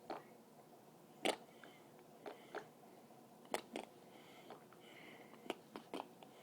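Wet mouth clicks and smacks made with water held in the mouth: about a dozen short, sharp clicks at irregular intervals.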